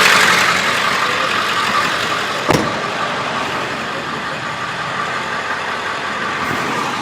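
2001 Ford E350's 7.3-litre turbo-diesel V8 idling steadily, with a single sharp click about two and a half seconds in.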